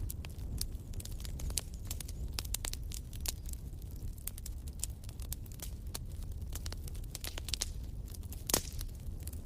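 Wood fire crackling: irregular sharp pops and snaps over a low steady rumble of burning, with one louder pop near the end.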